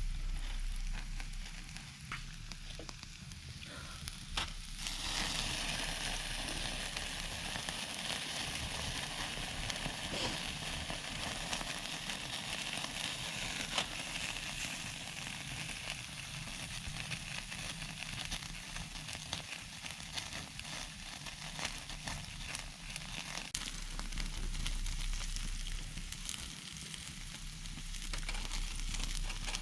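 Wood campfire crackling, with sharp pops scattered throughout. A steady hiss joins from about five seconds in and fades out a few seconds before the end.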